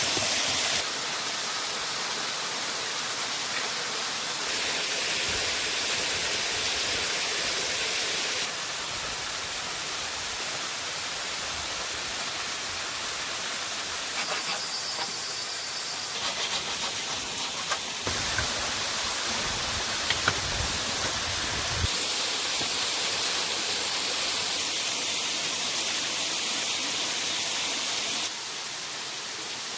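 Rushing water of a waterfall: a steady, even hiss that jumps in level a few times, with a few faint knocks in the middle.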